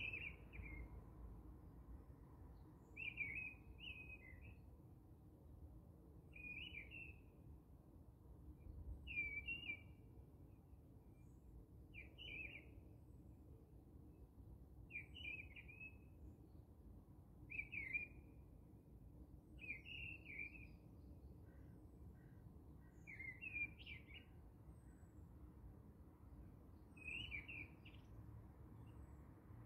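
A small bird chirping repeatedly, one short call every two to three seconds, over a faint background hiss.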